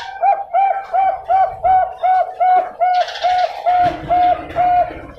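Bangkok-type zebra dove (perkutut bangkok) cooing: a rapid, even string of short, hooked coos on one steady pitch, about three a second, spacing out slightly toward the end.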